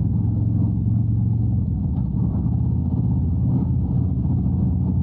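Harley-Davidson Road Glide's V-twin engine running steadily while riding at an even speed.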